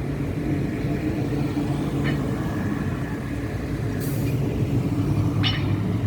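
Tram running, a steady low rumble with a thin high whine. There is a short hiss about four seconds in and a brief squeal near the end.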